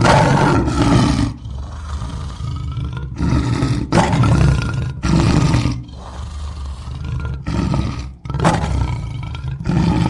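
Lion roaring: a run of deep roars repeated one after another with short breaks between them.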